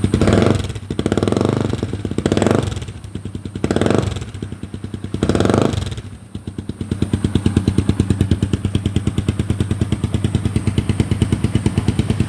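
Honda CB150R single-cylinder engine through a modified 'bobokan' exhaust, blipped four times in the first six seconds and then settling into a steady, evenly pulsing idle. The exhaust note is a bass tone that the owner calls not noisy.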